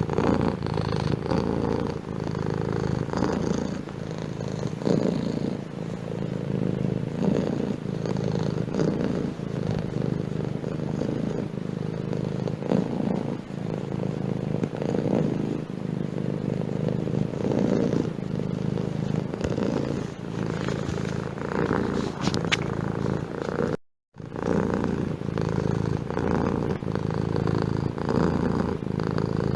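Domestic cat purring continuously, swelling and easing in a slow rhythm. The sound cuts out for a moment about three quarters of the way through.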